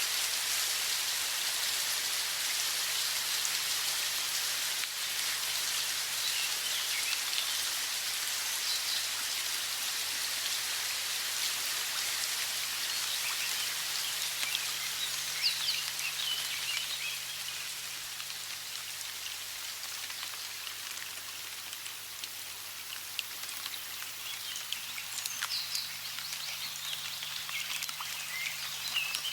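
Steady hiss of running water with small birds chirping in scattered bursts, a few seconds in, around the middle and again near the end.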